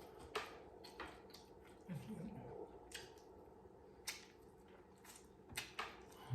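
Close-miked eating: chewing with wet mouth clicks and lip smacks, about one every second or so, and a brief low murmur about two seconds in.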